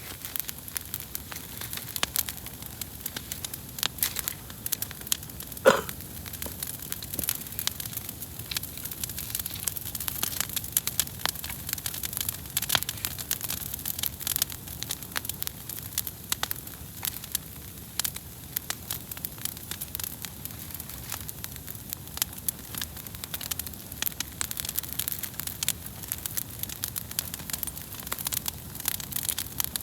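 Wood campfire crackling, with many small sharp snaps over a steady hiss and one louder pop about six seconds in.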